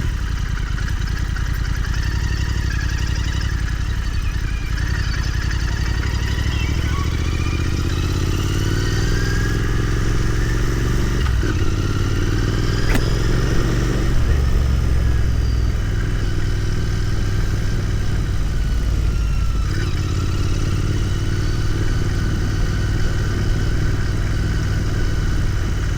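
Royal Enfield Continental GT 650's parallel-twin engine running on the move. Its pitch climbs as it accelerates through the middle, a sharp click sounds about halfway, and the pitch drops and holds steady near the end.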